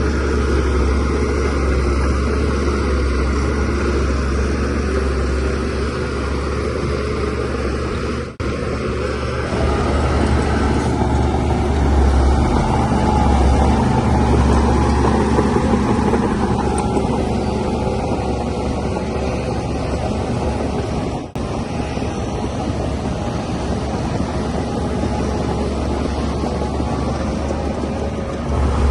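Shantui DH17C3 bulldozer's diesel engine running steadily under working load. The sound drops out for an instant twice.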